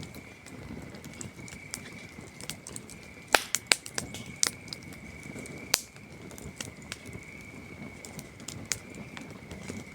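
Campfire wood crackling and popping, with a cluster of loud pops a little past three seconds in and another sharp pop near six seconds, over a steady high trill of crickets.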